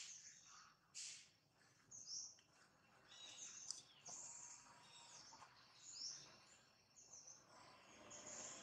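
Faint outdoor forest background with small birds giving short, high chirps every second or so.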